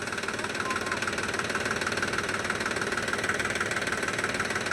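Heavy diesel engine of a tractor or JCB backhoe loader running steadily with a rapid, even knocking beat, working to free a pipe-loaded trolley stuck in dust.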